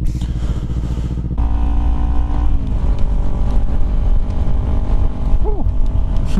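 Motorcycle engine and exhaust running while riding, with heavy wind rumble on the helmet microphone. The engine note steps up about a second and a half in, holds steady for about a second, then wavers.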